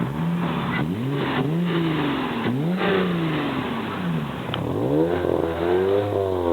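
Car engine revved repeatedly while the car stands still, the pitch rising and falling back about once a second.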